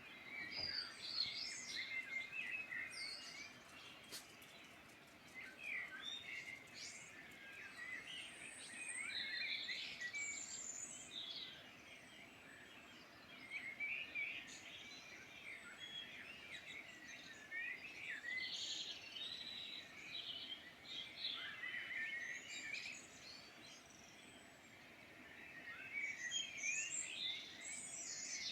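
A chorus of several small songbirds singing at once, with overlapping chirps and warbled phrases that swell and ease off in waves.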